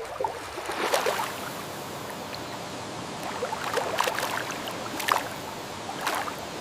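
Water running steadily, with a few short splashes or sloshes spread through it.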